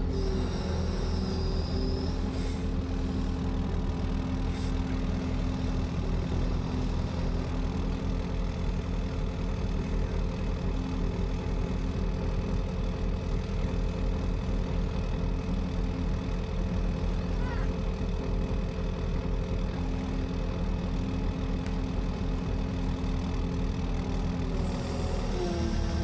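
An engine running steadily at a constant speed. Near the end its pitch shifts slightly.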